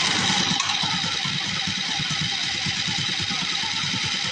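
Mini bike's small single-cylinder engine, just pull-started, running steadily at idle. It keeps running because the kill switch is not grounding the engine out.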